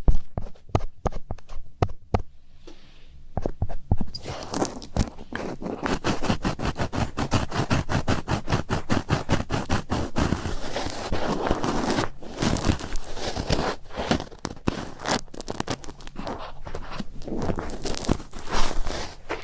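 Close-miked ASMR trigger sounds: rapid crackling, scratching clicks. They start sparse and become dense and continuous about four seconds in, with brief dips partway through.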